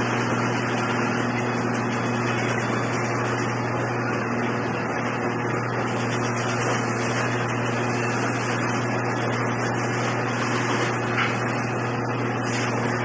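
CC201 diesel-electric locomotive's engine idling with a steady, even hum.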